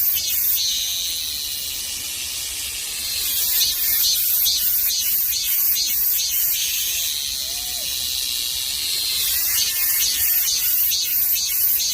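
Korean robust cicada (Hyalessa fuscata) singing: a high, rhythmic run of pulsed 'mem-mem-mem' notes, about three to four a second, that twice gives way to a long drawn-out steady tone before the pulsing starts again.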